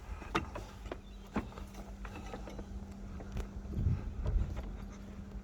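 Scattered light knocks and clicks, with a few heavier thumps about four seconds in, over a steady low hum.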